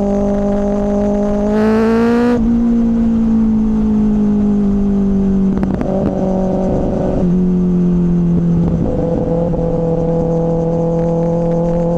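2024 Kawasaki ZX-6R's inline-four engine through an M4 slip-on exhaust, heard from onboard while riding. The engine note climbs briefly about two seconds in, then falls back. A short rush of noise comes around six seconds, the pitch drops a step near seven seconds, and the note then rises slowly as the bike speeds up.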